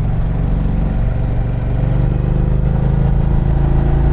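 2024 Harley-Davidson Pan America's Revolution Max 1250 V-twin running steadily under way through a Vance & Hines exhaust, mixed with wind noise.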